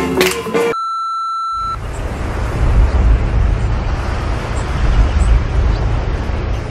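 A single steady electronic beep lasting about a second, then a steady low rumbling noise that runs on under it.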